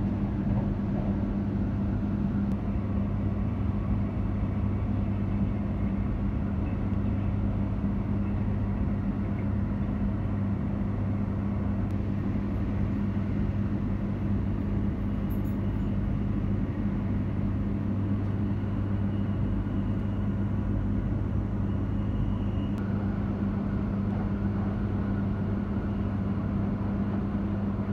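Steady running noise inside the cabin of an E3 series 0 Shinkansen train at speed: an even rumble with a constant low hum.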